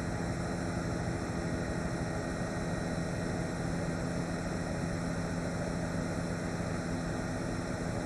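News helicopter's engine and rotor noise: a steady drone with several fixed hum tones, unchanging throughout.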